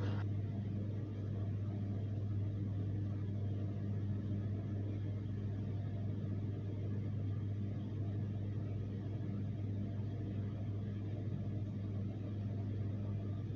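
A steady low hum with a faint hiss, unchanging throughout, with no animal call or other distinct event.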